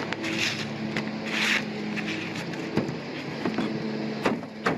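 Steady hum of a running motor, with a couple of short scraping hisses in the first two seconds and several sharp knocks in the second half, as of work on a metal roof.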